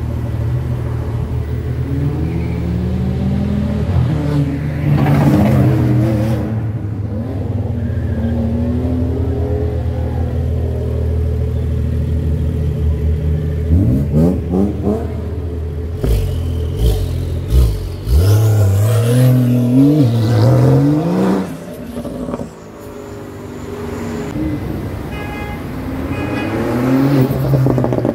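Porsche 911 flat-six engines running at low speed, with several rising revs as the cars pull away. About two-thirds of the way through, one car accelerates with stepped rises and drops in pitch, like gear changes.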